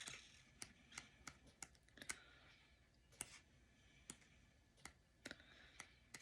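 Near silence with about a dozen faint, sharp clicks at irregular intervals.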